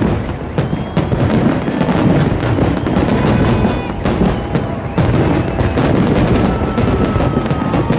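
Fireworks display in full barrage: a dense, loud run of shell bursts, bangs and crackles following each other several times a second.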